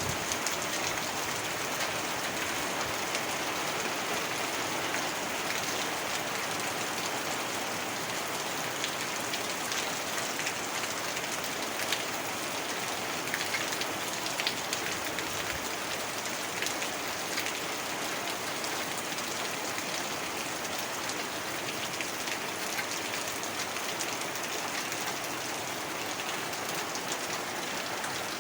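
Heavy rain falling steadily, with scattered drops ticking on a surface.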